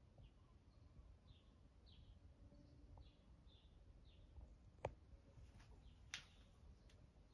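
Near silence, with faint small-bird chirps repeating every half second or so in the background and two sharp clicks about five and six seconds in.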